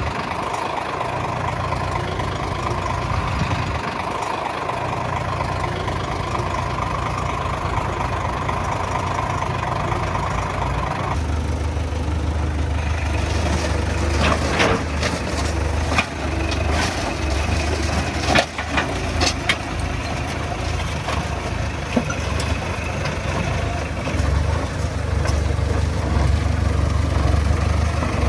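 Heavy diesel earthmoving machinery running steadily. About eleven seconds in the engine note turns suddenly deeper and heavier, with scattered metallic knocks and clanks.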